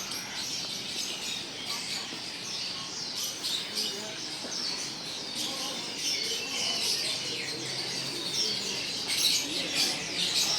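Many caged songbirds chirping and twittering together, a dense chorus of overlapping high chirps with no pause.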